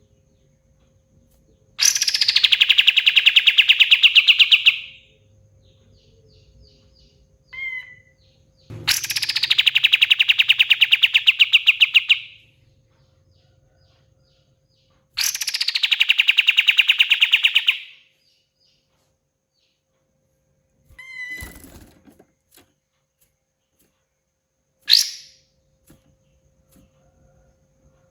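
Kapas tembak bulbul singing three long, loud, very fast rattling trills of about three seconds each. Each trill opens with a high note sweeping down. Short chirps and single notes come between them.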